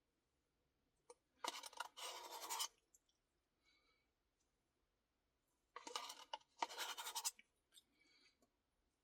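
Spoon scraping the inside of a Blizzard cup, as the last of the ice cream is polished off: two quick scrapes about a second and a half in, and two more about six seconds in.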